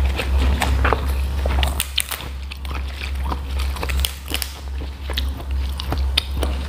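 Close-miked eating sounds: chewing with small wet mouth clicks, and crisp snaps as raw bok choy stalks are broken apart by hand, all over a steady low electrical hum.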